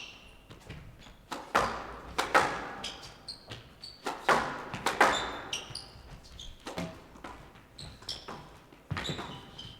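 A squash rally: racket strikes and the ball cracking off the walls of a squash court, about a dozen sharp hits at an uneven pace and echoing in the hall, with short high squeaks of players' shoes on the court floor between them.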